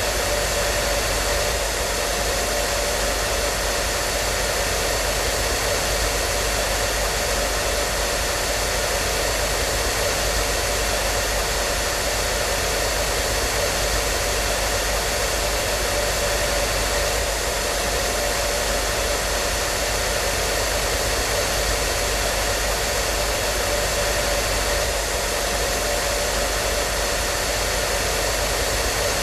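Hair dryer running steadily: an even blowing rush of air with a faint steady motor hum.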